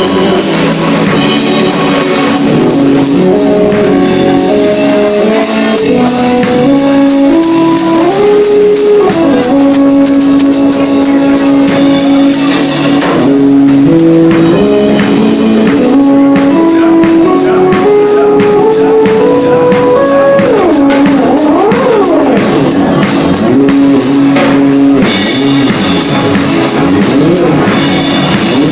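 Synthesizer keyboard music: a melody of held notes stepping up and down over a steady drum-machine beat, with swooping pitch glides about two-thirds of the way through.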